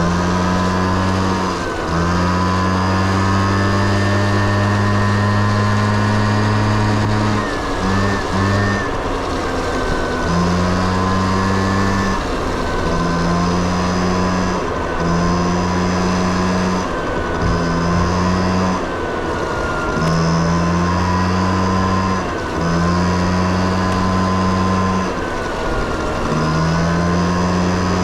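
Honda Dio AF18 50cc two-stroke scooter engine under way, the throttle opened and eased off again and again. The engine note rises and falls, and its low drone drops away briefly every few seconds before picking up again.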